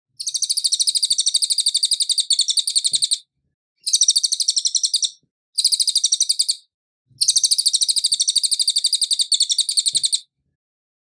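Cililin song: a fast, even, high-pitched trill of about a dozen notes a second, given in four bouts.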